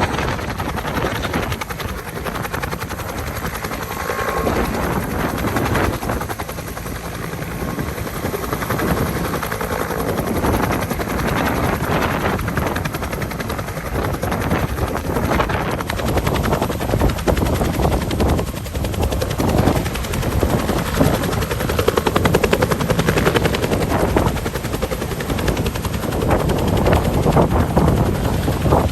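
Helicopter rotor and turbine noise, with the blades beating rapidly and the sound swelling louder in the second half.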